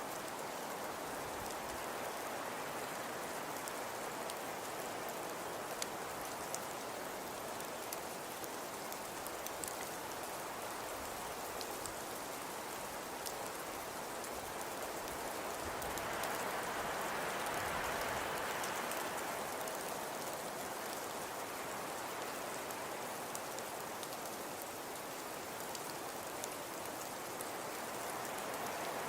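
Crackling fireplace: a steady soft hiss with scattered small pops and crackles, the hiss swelling for a few seconds a little past the middle.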